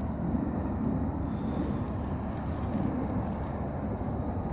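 An insect chirping steadily, short high, thin chirps about twice a second, over a low steady rumble.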